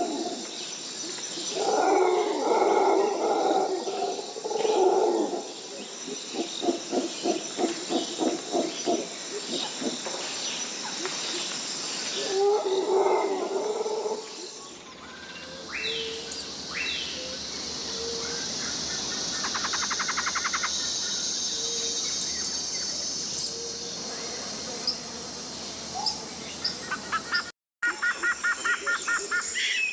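Tropical rainforest ambience: repeated animal calls and a fast pulsing trill over a bed of insects, then, after a cut about halfway, a steady high insect drone with scattered bird chirps and sweeping calls.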